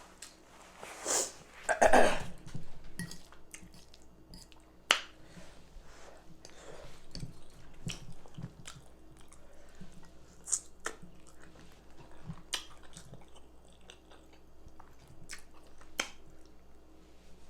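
Close-miked mukbang eating sounds: chewing, lip smacks and mouth clicks while eating baked chicken and rice. A loud, noisy rustle-like burst comes about a second in, and sharp clicks come now and then.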